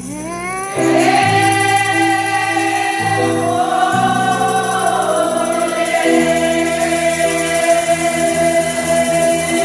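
Gospel worship singing by a group of voices over sustained held chords; a voice slides up into a long held note about a second in, then settles on a lower held note later.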